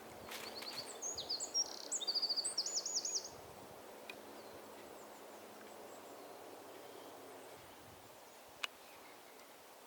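A songbird sings one varied phrase of high chirps and quick trills, about three seconds long, over a steady faint outdoor hush. A single sharp click comes near the end.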